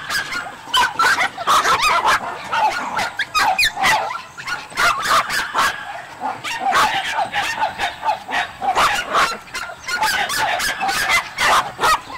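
Many dogs barking and yipping at once in a continuous, overlapping chorus with no pause, in a kennel crowded with caged dogs.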